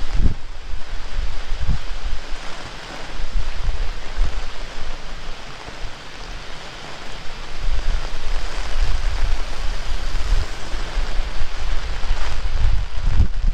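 Heavy rain falling steadily, with gusts of strong wind buffeting the microphone. The gusts are strongest at the start and again from about halfway through.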